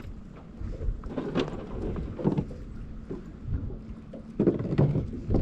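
Steady low rumble and wind noise aboard a small fishing boat, with a few short, faint, voice-like sounds.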